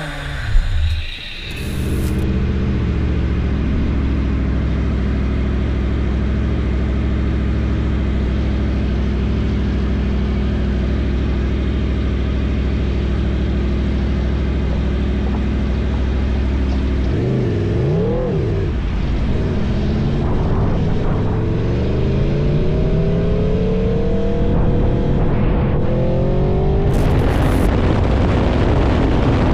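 Motor vehicle engine, most likely a motorcycle's, running at a steady speed. After a brief up-and-down swing in pitch, it rises repeatedly in pitch as it accelerates.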